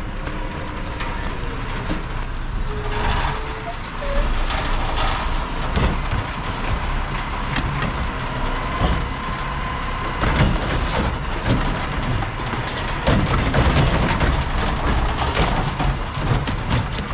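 Mack LR recycling truck running close by, its engine rumbling steadily. A high brake squeal comes about a second in and lasts a few seconds, and several loud knocks follow later.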